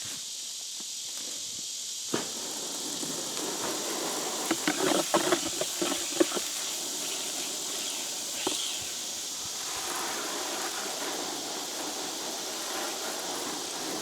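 Knocks and scrapes of a bag of concrete mix being handled and mixed in a plastic tub: one knock about two seconds in, a cluster of knocks and scrapes around the middle, and another knock later. Under it runs a steady high hiss of insects.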